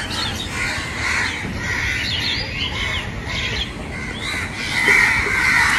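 Birds calling outdoors, a mix of many short chirps and squawky calls, a little louder near the end.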